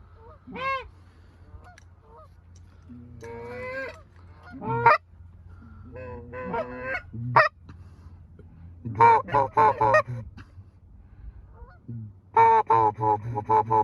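A flock of Canada geese honking on the water. Single honks and short clusters build to dense stretches of many birds calling over one another about nine seconds in and again near the end.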